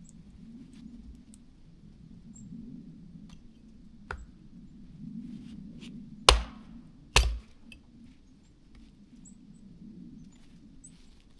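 Three sharp chopping blows: a light one, then two hard ones about a second apart.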